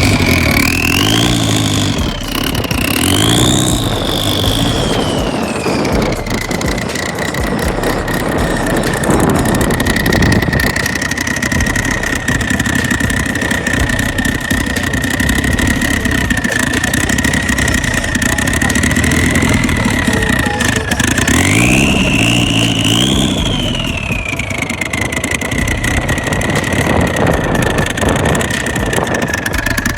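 A performance car's engine and exhaust idling, blipped up twice in the first few seconds and once more about two thirds of the way in. A steady high whine rises and falls in pitch with each rev.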